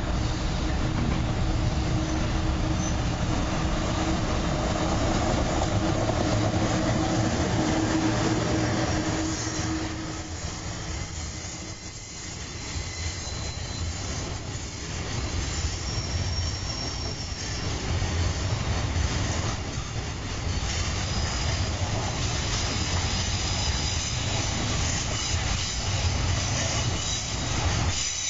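A JR Freight EF66 electric locomotive passes with a steady hum that fades about ten seconds in. A long train of loaded container wagons then rolls by, its wheels clattering over the rail joints.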